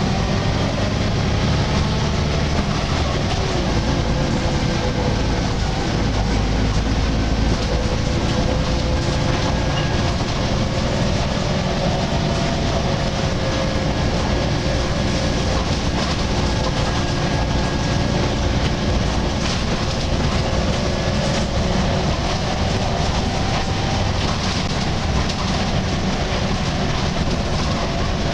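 Volvo B10BLE single-decker bus with a Wright Renown body, heard from on board while under way: a steady engine and road rumble with a drawn-out groaning tone that slowly drifts in pitch.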